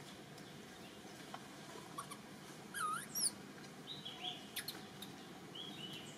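Outdoor ambience with birds chirping: short high chirps scattered over a steady background hiss, and one louder, swooping whistled call about three seconds in.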